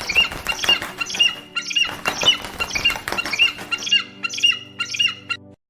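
An animal's rapid series of short, shrill, squeaky calls, about three a second, cutting off suddenly near the end.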